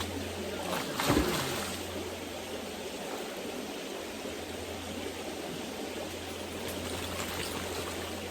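Creek water running steadily over rocks, with a brief louder noise about a second in.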